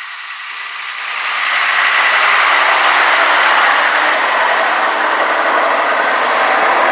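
Vintage truck's diesel engine growing louder as the truck drives close by, then running loud and steady. The sound cuts off suddenly near the end.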